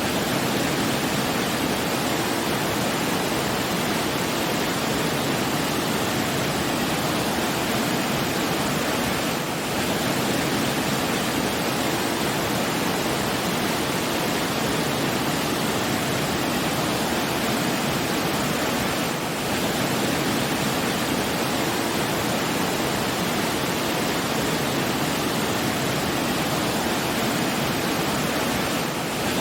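Steady, dense rushing of water, like a waterfall or fast stream, dipping briefly about every ten seconds.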